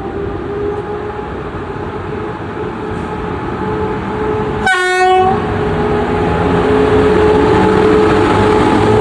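Passenger train pulling out of a station: a steady rumble with a slowly rising electric whine as it gathers speed, and a short horn toot about five seconds in. It grows louder toward the end as the train passes closer.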